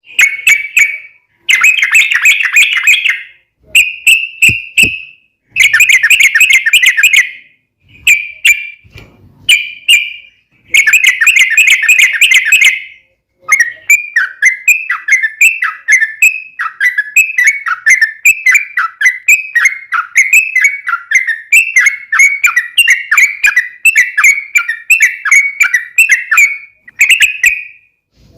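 Yellow-vented bulbul (trucuk) singing loudly in full song: short bursts of fast chattering notes separated by pauses, then from about halfway a long unbroken run of quick down-slurred whistles.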